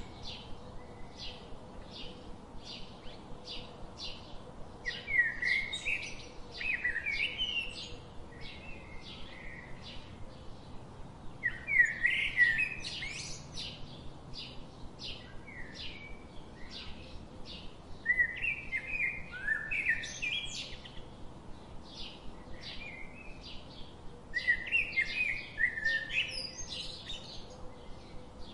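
Birdsong: steady single chirps about twice a second, with a louder, more complex song phrase coming back about every six to seven seconds.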